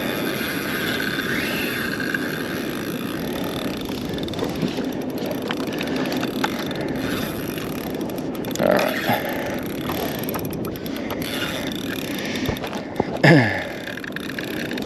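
Penn Slammer VI spinning reel being wound steadily as a hooked fish is reeled in, a whirring mechanical retrieve over wind and water noise. A short louder sound comes a bit past the middle and again near the end.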